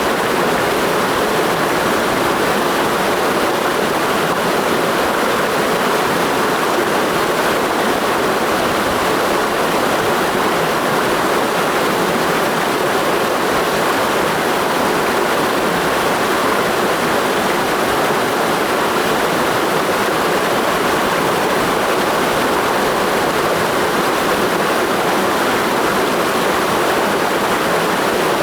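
Clear mountain stream flowing through a gorge: a steady, unbroken rush of water.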